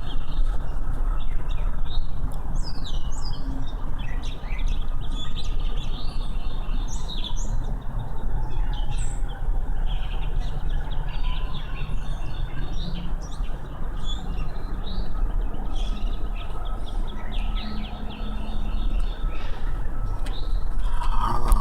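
Many small birds chirping and singing at once in a spring chorus, over a steady low rumble.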